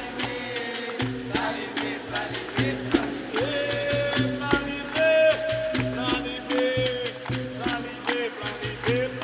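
Capoeira roda music: a berimbau and rattling percussion keep a steady rhythm. Singing joins about three and a half seconds in.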